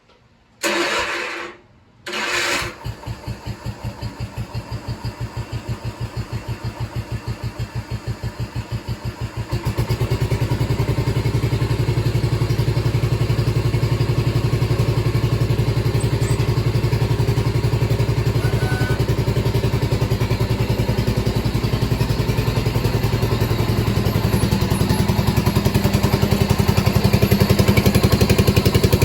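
Garden tractor engine cranked and started: two short bursts of cranking, the second catching, then the engine idles with an even beat. About ten seconds in it is throttled up to a louder, steadier run that holds to the end.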